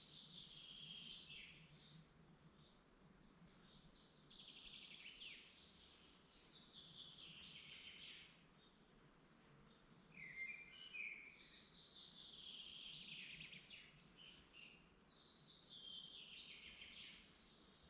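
Songbirds singing in a forest, a series of song phrases every few seconds, each sweeping down in pitch over a second or two, over a faint steady background.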